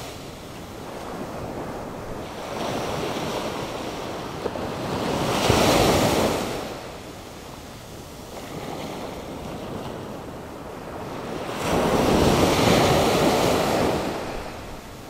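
Atlantic Ocean surf stirred up by a hurricane: waves breaking and washing up the shore in a steady rush. Two big waves crash, about five seconds in and again about twelve seconds in, with quieter backwash between them.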